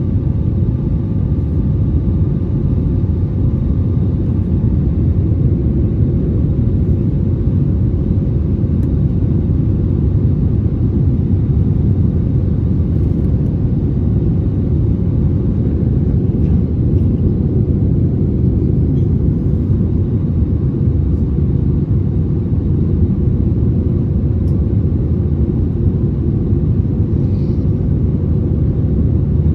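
Airbus A320neo engine and airflow noise heard inside the passenger cabin: a loud, steady rumble.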